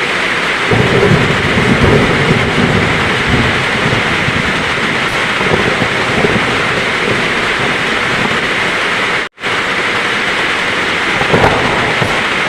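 Heavy rain falling steadily, with thunder rumbling for a few seconds starting about a second in and again briefly near the end. The sound cuts out completely for an instant about nine seconds in.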